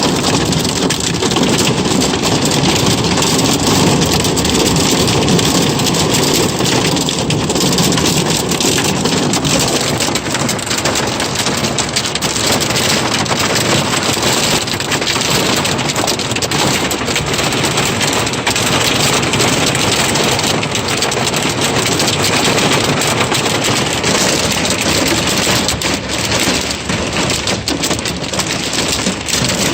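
Heavy thunderstorm rain pouring steadily onto surfaces, with many small ticks of drops striking. A low rumble sits under the rain for the first several seconds and fades about nine seconds in.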